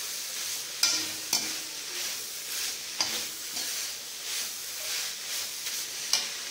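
Mint, coriander and curry leaves with urad dal and garlic frying in oil in a metal kadai, a steady sizzle while a slotted metal spatula stirs them. A few sharp clinks and scrapes of the spatula against the pan stand out, about a second in, at three seconds and near the end.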